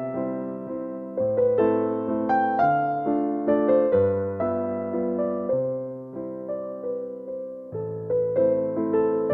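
Slow, gentle piano music: a melody of single struck notes that fade away, over low bass notes held for a second or two at a time.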